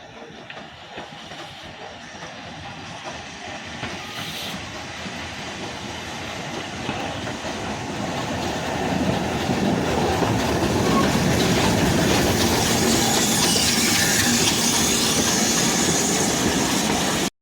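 Train running on the rails, growing steadily louder for about nine seconds, then loud and steady until it cuts off suddenly near the end.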